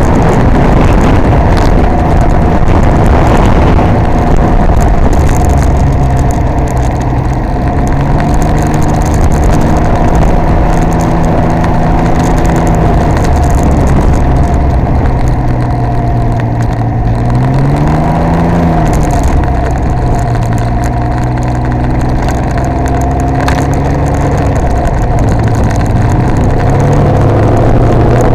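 Can-Am Ryker Rally 900's three-cylinder engine running steadily at low city speed, with one brief rev that rises and falls about two-thirds of the way through.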